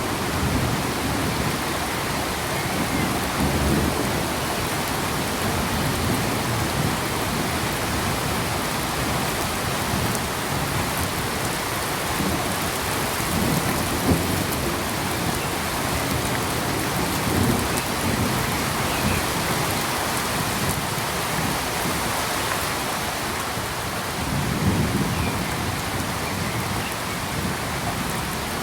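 Steady rain falling, a dense even hiss of drops, with low rumbling swells that come and go every few seconds.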